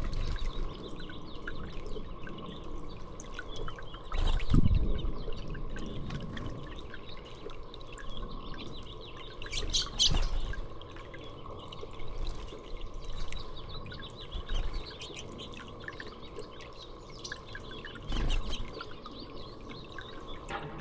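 Small songbirds chirping with short calls throughout, over a faint steady hum. There are a few louder bumps about four seconds in, about ten seconds in, and near the end.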